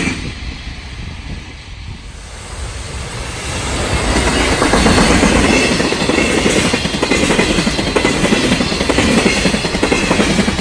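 JR Freight container train passing close by: the sound builds over the first few seconds, then a steady rumble with the clickety-clack of the wagons' wheels over rail joints.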